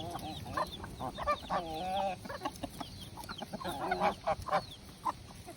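Several chickens clucking, with many short overlapping calls.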